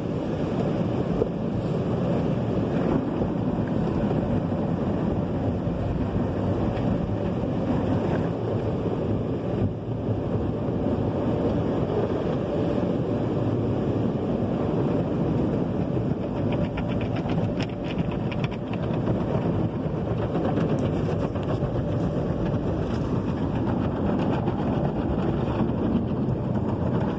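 Automatic tunnel car wash heard from inside the car: a steady rush of water spray and wash equipment working over the car's body.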